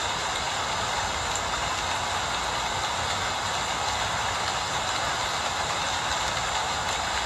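Steady rain falling, an even unbroken hiss with no separate drops or knocks standing out.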